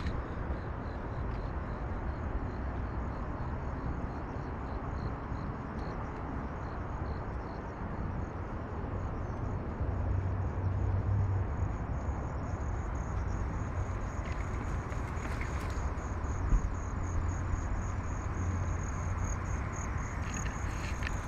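Crickets chirping in a steady run of rapid high pulses, over a steady low background rumble.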